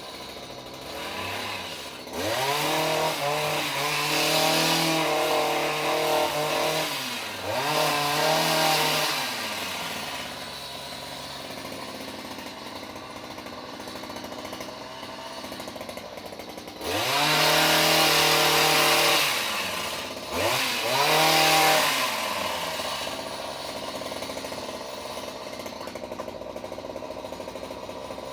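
Petrol chainsaw revving up four times, in two close pairs of bursts lasting a few seconds each, dropping back to idle between them and idling near the end.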